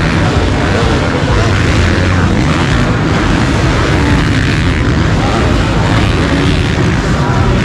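Loud, steady din of a busy motorcycle show hall, with a deep rumble underneath and no single sound standing out.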